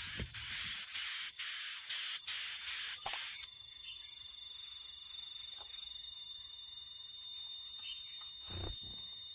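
A steady, high-pitched insect chorus of cricket-like trilling sets in about three seconds in, after a stretch of high hiss with faint ticks. A soft low thump comes near the end.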